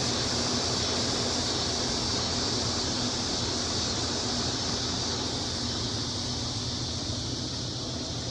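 Steady high-pitched buzzing chorus of cicadas and crickets, over the low steady hum of a running air conditioning unit. The chorus eases off slightly toward the end.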